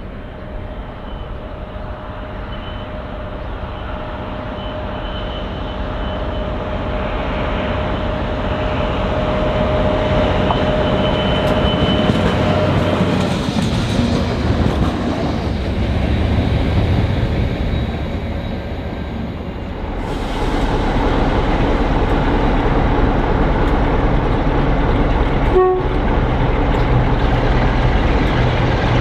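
Freight train locomotives approaching and passing, a steady tone over a rising rumble through the first half, then a louder even rumble of locomotive and wagons from about two-thirds in.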